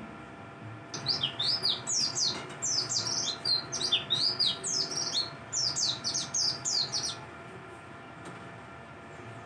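White-eye (pleci, the dakbal variety) singing a long, fast twittering song of high, quickly sliding chirps, which stops about two seconds before the end.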